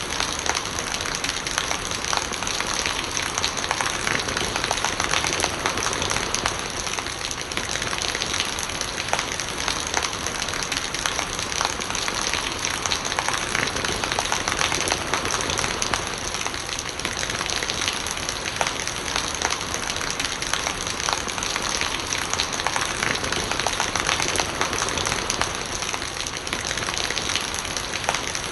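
Steady rain with many drops pattering close by, and rainwater gurgling as it runs off.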